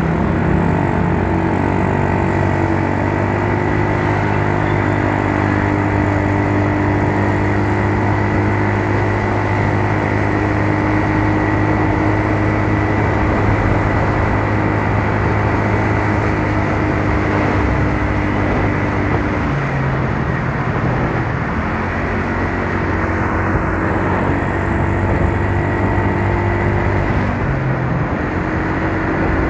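Yamaha Mio Soul scooter's single-cylinder four-stroke engine running under way, with wind and road noise. Its note holds steady, changes pitch about two-thirds of the way through, and shifts again near the end.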